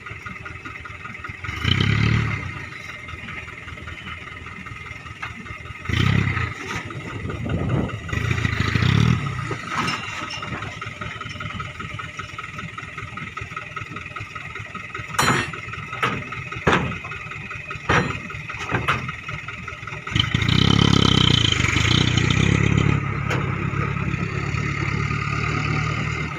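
Loaded Isuzu dump truck's diesel engine running, swelling louder several times as it is revved or put under load, with a few sharp knocks in the middle and a longer loud pull near the end.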